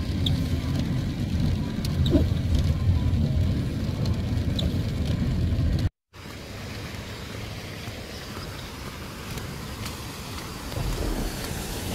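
Steady rain noise with a heavy low rumble underneath for the first half. After a brief dropout about six seconds in, it goes on as a quieter, even hiss of rain.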